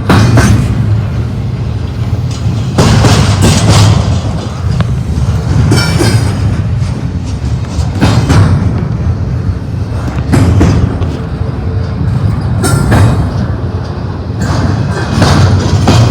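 Double-stack freight train cars rolling past: a loud, continuous rumble with irregular clanks and knocks from the wheels and couplers.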